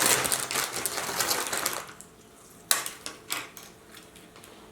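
Paper fast-food bag being handled, a dense crackling rustle for about two seconds followed by a few separate sharp crinkles.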